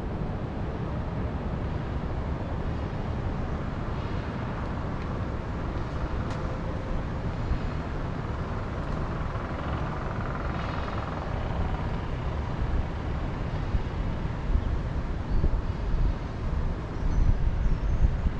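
Wind blowing over the microphone, with gusts growing stronger toward the end, and a distant vehicle passing through the middle. A few faint bird chirps come in near the end.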